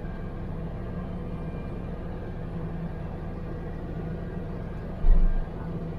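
Engine of heavy equipment running steadily at a low hum, with a short low thump about five seconds in.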